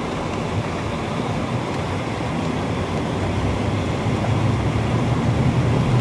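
Steady engine and road noise inside a moving car's cabin, growing slightly louder near the end.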